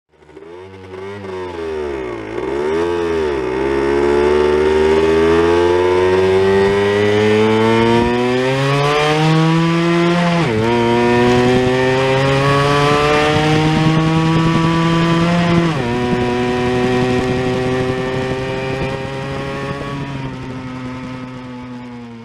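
Suzuki GN50E small two-stroke motorcycle engine running and revving. The pitch blips up and down a few times at first, then climbs steadily, drops sharply twice and climbs again, and slowly falls away near the end.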